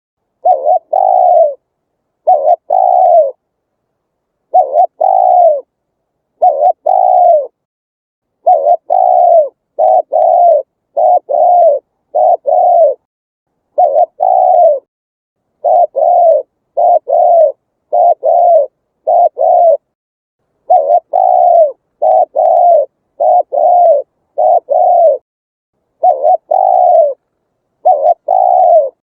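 Spotted dove cooing over and over. Each phrase is a quick group of two or three low notes that fall in pitch, with short clean silences between phrases.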